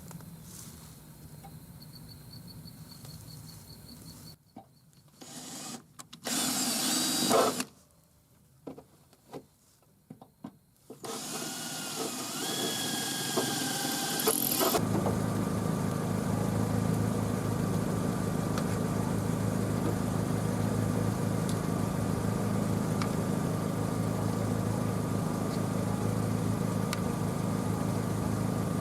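Pickup truck engine idling steadily from about fifteen seconds in. Before that, short choppy bursts of noise break up near-silent gaps.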